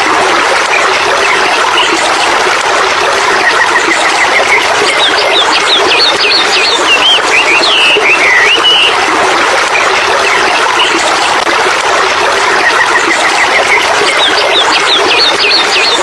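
Birds chirping in groups of short, quick whistled calls over a steady loud hiss. The same run of calls comes back about every nine seconds, like a looped nature recording.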